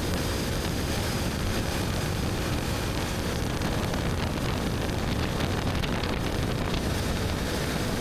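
BMW R1250GS Adventure's boxer twin running at a steady pace through an Akrapovic slip-on exhaust while riding, mixed with wind rushing over the microphone.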